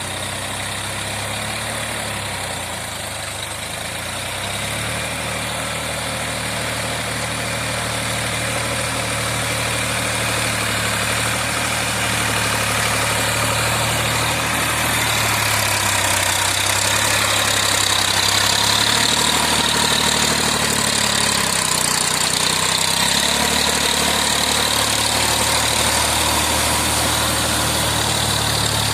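Massey Ferguson 7250 diesel tractor running with its rotavator, the engine note shifting slightly in pitch. A broad hissing noise grows louder about halfway through.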